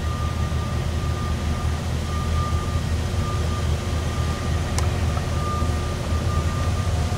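Train running with a steady low rumble, and a faint high tone that comes and goes.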